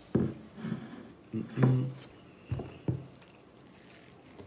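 Mouth sounds of a man eating a forkful of chickpeas and rice close to the microphone: a few short, soft, low thumps and smacks while he chews, with a brief hummed 'mm' about a second and a half in.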